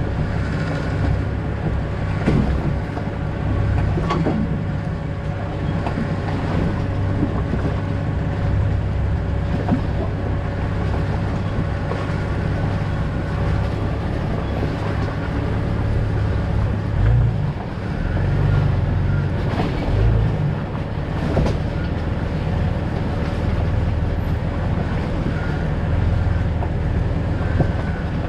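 A 2000 Jeep Cherokee XJ driving on a rough backcountry road: a steady low rumble of engine and road noise with a faint steady hum, and a few sharp knocks and rattles from the bumps.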